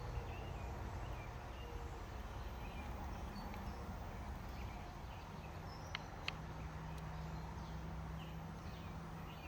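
Knife slicing Spam on a cutting board, with two sharp clicks of the blade against the board about six seconds in, over faint outdoor ambience with scattered bird chirps.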